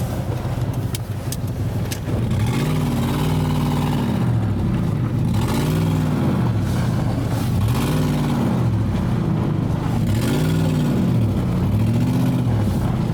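Truck engine revved up and let back down about five times in a row, each rev rising and falling in pitch, while the truck slides on an icy road.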